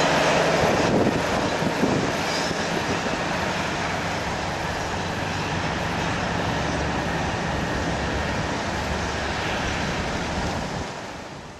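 Freight train of covered hopper wagons running away on the rails, pushed by a diesel locomotive at its rear, with steady wheel-and-rail rumble. The engine's drone fades out in the first second or so, and the rumble sinks slowly and dies away near the end.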